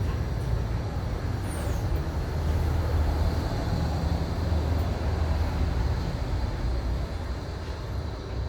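A modern tram running along its street track, a steady low rumble with a faint high squeal falling in pitch about a second and a half in.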